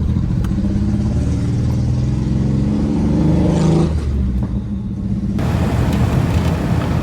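Truck engine running, with the pitch rising as it revs up about three seconds in and falling back a second later. The background noise changes abruptly past the middle.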